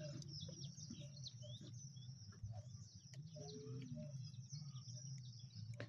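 Faint birds chirping and calling against quiet open-air background, with a low steady hum underneath.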